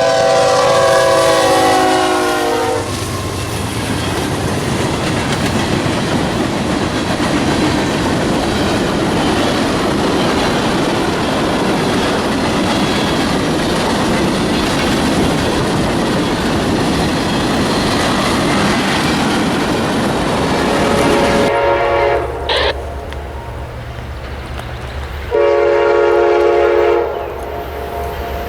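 A diesel locomotive horn blows a chord, then a train rolls past close by with loud, steady wheel and engine rumble and clickety-clack. Near the end the horn sounds twice more, a short blast and then a longer one.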